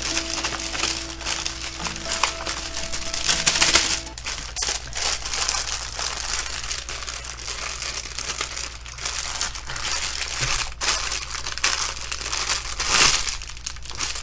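Clear plastic packaging crinkling as hands handle and press flat a sleeve of instructions and small bags of diamond painting drills, with louder crackles a few seconds in and near the end.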